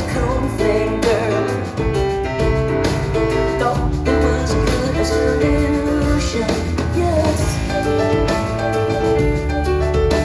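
Live concert music: a woman singing over piano and a backing band with steady bass.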